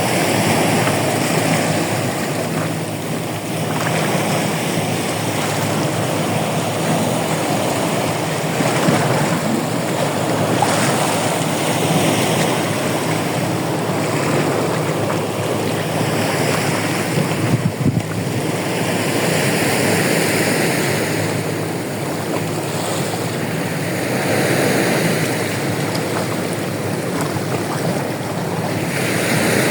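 Sea waves washing in, with wind buffeting the microphone; the hiss swells and fades every few seconds.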